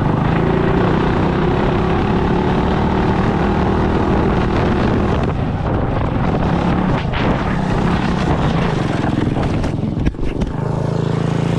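Mini bike's small engine running under throttle while riding, its pitch rising and falling, with a brief break about ten seconds in before it settles to a steadier, even note near the end.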